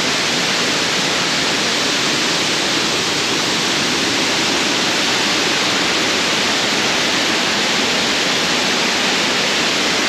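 Waterfall rushing with a steady, loud roar of falling water at a moderate flow, unchanging throughout.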